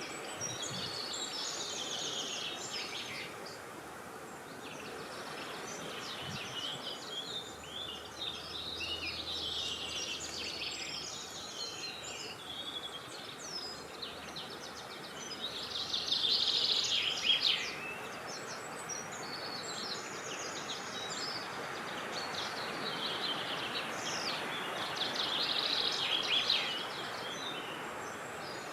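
Several songbirds singing and chirping in overlapping, varied phrases over a steady rush of wind, with two louder spells of dense song, about halfway through and near the end.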